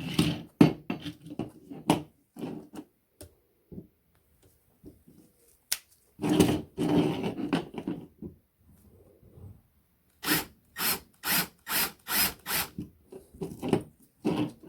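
Hand-tool work on a small die-cast toy lorry: scattered clicks and knocks, a longer scrape about six seconds in, then a run of quick, even rubbing strokes, about three a second, near the end.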